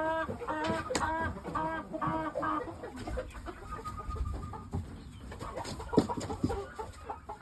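Chicken clucking: a quick run of short, repeated clucks, about two a second, that stops about two and a half seconds in. After that there is quieter low rumble and a few sharp knocks.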